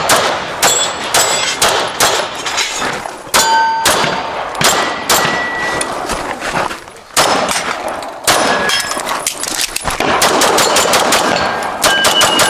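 Pistol fired in rapid strings of shots with short pauses between them, steel targets ringing with a short clear tone when hit.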